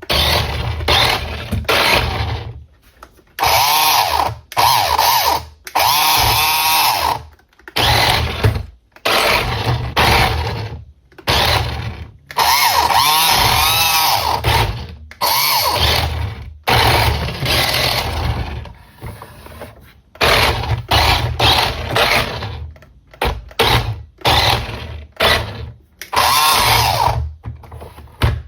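Small electric motor of a 1:20 scale remote-control car whirring in repeated short bursts, its pitch rising and falling as the throttle is blipped on and off.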